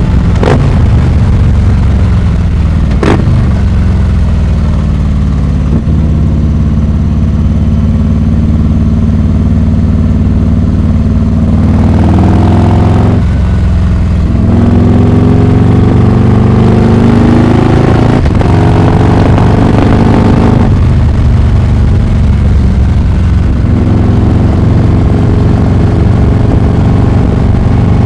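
Harley-Davidson Heritage Classic 114's Milwaukee-Eight V-twin through a Rinehart exhaust, running loud under way. The engine pulls up in pitch and drops back at gear changes several times.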